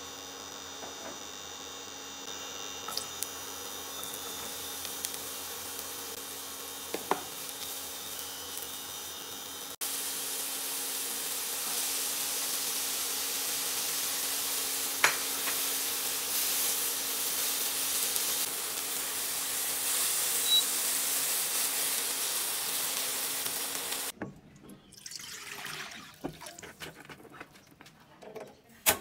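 Sliced mushrooms and diced onion sizzling in a frying pan as a spatula stirs them: an even hiss that comes in about ten seconds in and drops away a few seconds before the end. Before the hiss there is a steady hum with a few light clicks.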